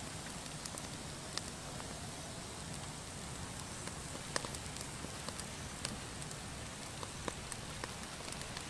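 Fish roe frying in oil on a fire-heated stone slab: a steady sizzle with scattered sharp pops.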